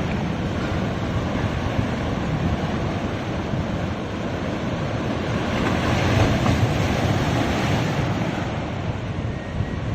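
Ocean surf washing onto a beach, a continuous rush of waves that swells and eases, with wind rumbling on the microphone.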